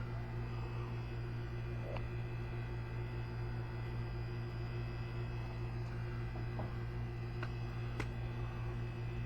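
Steady low hum with several faint steady tones above it, and a few faint sharp clicks scattered through it, the sharpest about eight seconds in.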